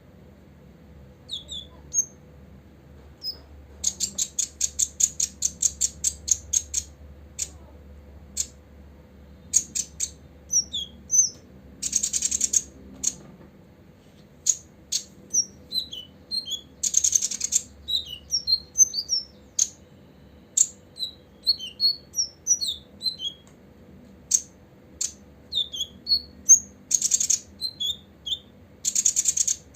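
Copper-throated sunbird singing: a stream of short, high chirps and quick slurred notes. About four seconds in comes a fast run of sharp ticking notes at roughly seven a second, and three brief buzzy trills break in later.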